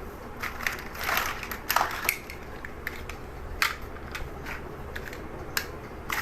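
Plastic building bricks being handled and snapped together: scattered sharp clicks, with a louder rattle of pieces about one to two seconds in.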